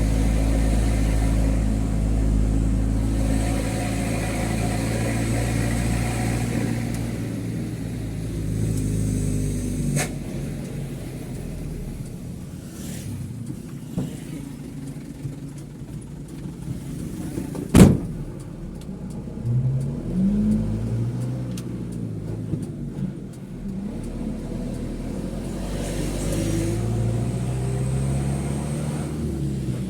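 Mitsubishi Fuso truck's diesel engine heard from inside the cab, running steadily under load, easing off after about ten seconds, then revving up with rising pitch twice, around twenty seconds in and again near the end. A sharp knock about eighteen seconds in is the loudest sound, with a few lighter clicks before it.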